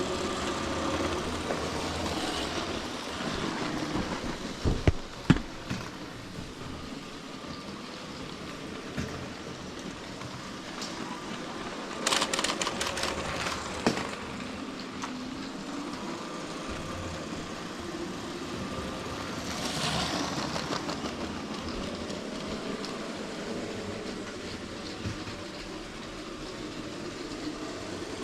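Motorised LEGO toy train running on plastic track: a steady rattling motor noise, with a couple of sharp clicks about five seconds in and a run of clicks from about twelve to fourteen seconds.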